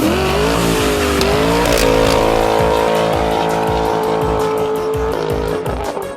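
A car with its tires squealing under hard acceleration, as in a burnout: the pitch rises over the first second or two, then holds steady with a hiss above it, and drops slightly about five seconds in.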